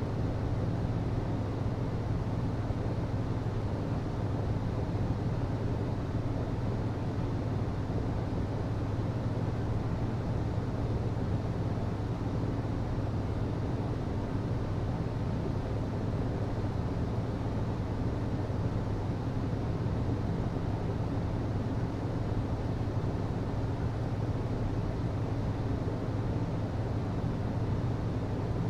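HVAC system running steadily: a constant low hum over an even rush of air, with no change in speed.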